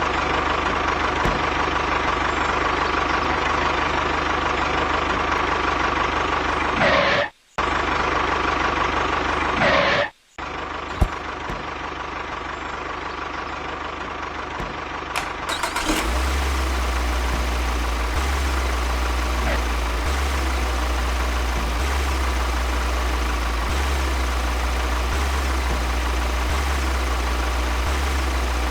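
A small motor running steadily. It cuts out briefly twice, around seven and ten seconds in, and from about halfway a deeper, steady low hum takes over.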